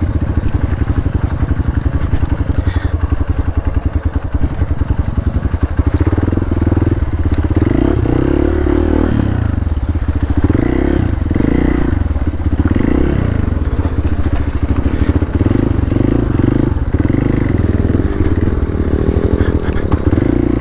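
Hero Xpulse 200's single-cylinder motorcycle engine running under load at low speed, its exhaust pulsing steadily. From about six seconds in, the revs rise and fall over and over as the throttle is worked.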